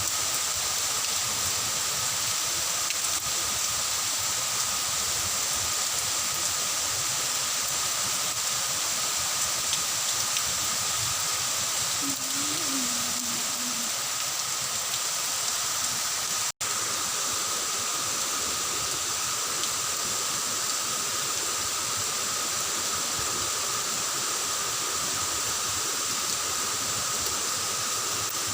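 Steady rain falling, an even hiss with no let-up. A short wavering pitched sound about twelve seconds in, and the sound cuts out for an instant a little past halfway.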